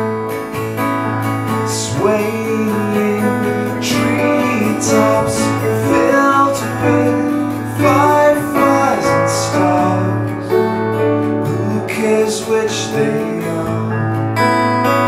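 Acoustic guitar strumming with piano in an instrumental passage of a live song, the strums falling about every two seconds over held notes.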